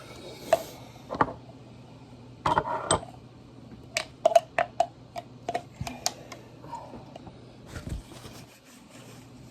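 Light clinks and taps of a spoon and utensils against glass jars as ground horseradish is packed into them, with a quick run of sharp clicks between about four and six seconds in.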